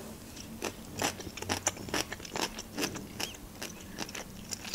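A person chewing a crisp slice of cucumber: a string of short, quiet, irregular crunches and wet mouth clicks.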